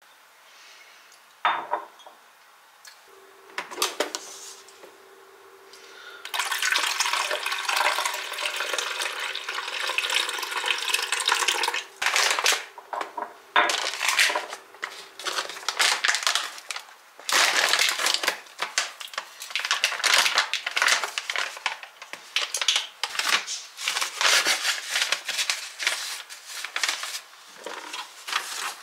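Kitchen work: dishes and utensils clattering and knocking, with a stretch of running water a few seconds in.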